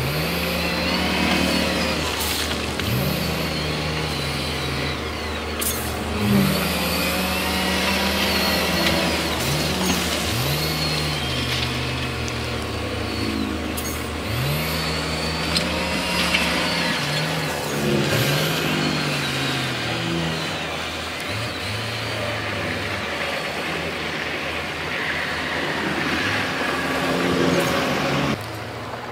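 Heavy diesel earthmoving machinery working. The engine note repeatedly jumps up sharply and sinks back as the machines rev under load.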